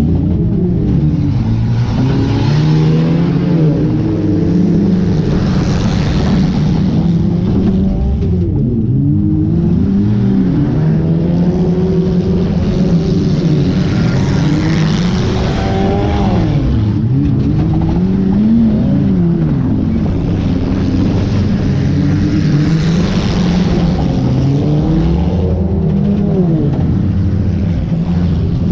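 Junk race car engines at full racing load, their pitch climbing and dropping again and again as they rev up and back off, loud and without a break.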